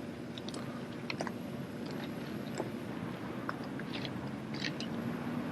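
Scattered light clicks and taps of a drill team handling their rifles and shifting their feet, over a steady background hum.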